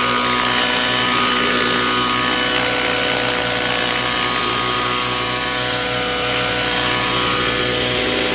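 Nitro glow engine and rotors of a T-Rex 700 RC helicopter in flight, running at high speed with a steady, high-pitched whine. The flyers think the engine is running a little rich.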